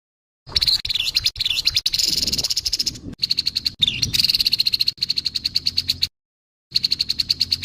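Grey-headed babbler giving its harsh call: a fast, rattling series of high notes, about eight a second, that stops for a moment near the end and then starts again.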